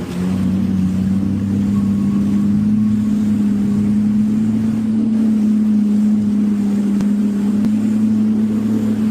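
Jet ski engine running under throttle, one steady drone whose pitch edges up slightly over the first couple of seconds and then holds.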